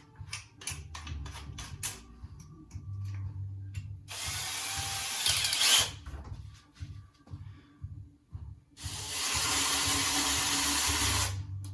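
Power drill run twice in short bursts of about two seconds each, boring out screw holes partly filled with epoxy using a slightly larger bit. A quick run of clicks comes first.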